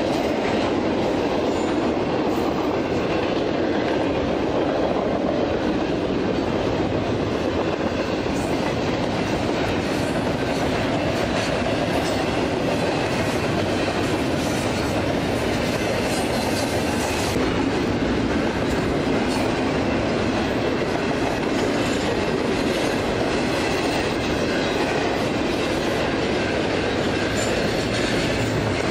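Double-stack container freight train's cars rolling past at speed: a steady rumble and clatter of steel wheels on rail that holds even throughout.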